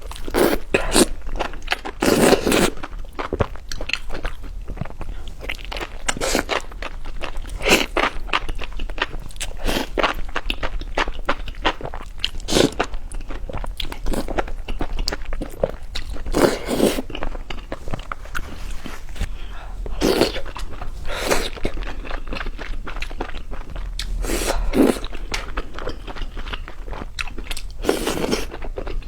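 Close-miked eating of crunchy food: a steady crackle of chewing, with louder crunching bites every few seconds.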